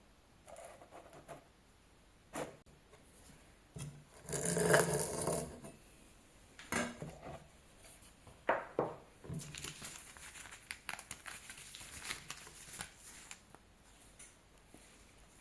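Dishes and utensils being handled: scattered light clinks and knocks, a louder, longer clatter about four to five seconds in, then a run of small quick ticks.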